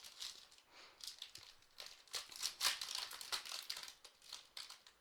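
Trading card pack wrapper crinkling with irregular crackles as it is torn open by hand.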